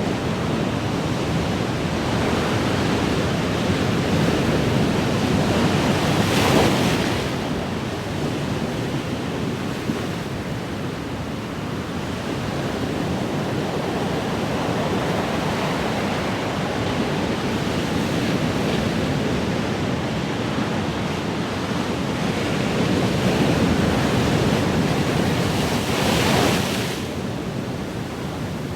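Ocean waves washing onto a shore in a steady rushing surf, swelling and easing, with two louder breaking waves, one about six seconds in and one near the end.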